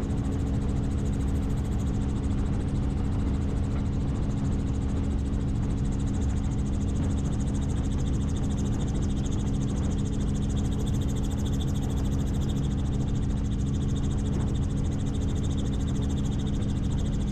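Helicopter in flight: a steady, unchanging drone of engine and rotors, with a strong hum over a low rumble and a faint high whine.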